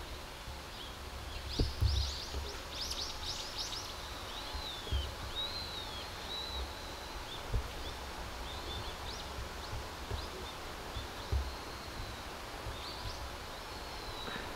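Small birds chirping and twittering: a quick burst of high chirps about two seconds in, then a few looping rising-and-falling notes and scattered chirps, over a steady background hum. Several short dull low thumps.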